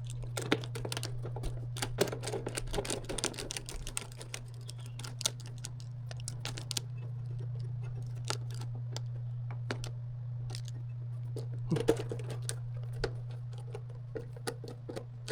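Small metallic clicks and taps of screws and a screwdriver being handled while fastening the spectrum analyzer's cover panels, dense for the first several seconds and sparser after, over a steady low hum.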